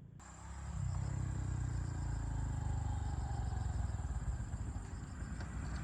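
A low, steady engine rumble that builds over the first second, with a continuous high-pitched insect drone over it.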